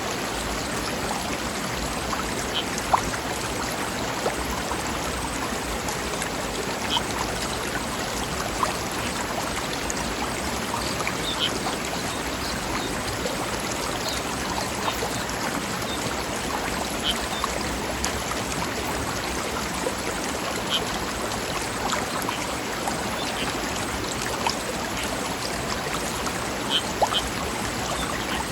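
A forest stream running steadily over rocks, a continuous rushing babble with brief little splashes now and then.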